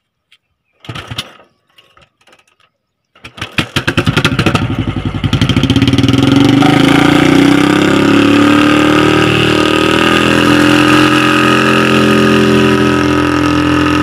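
Royal Enfield motorcycle engine being started with a balloon taped over its exhaust pipe. There is a short burst about a second in, then the engine catches a little after three seconds and runs loud and steady, a drone that slowly drops in pitch while the exhaust blows up the balloon.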